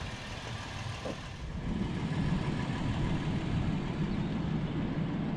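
2015 Toyota Tacoma's V6 engine running, a steady low rumble that grows louder about a second and a half in and then holds.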